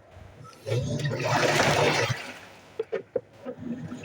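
Water splashing and sloshing inside an Electrolux washing machine, swelling to a loud surge about a second in, then fading, with a few short knocks near the end.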